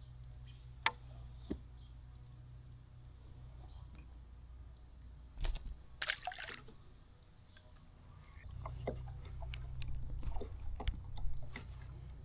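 Steady, high insect drone in the surrounding woods, with scattered clicks and knocks, a short noisy rush about six seconds in, and a louder low rumble with a run of small clicks in the last few seconds.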